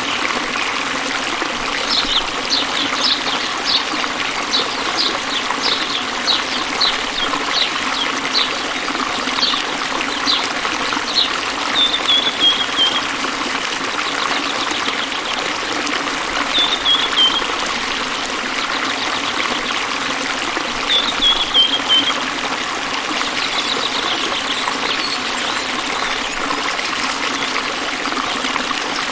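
Stream water trickling and running steadily. Over it come a quick series of short high chirps for about ten seconds, then a few brief falling trills.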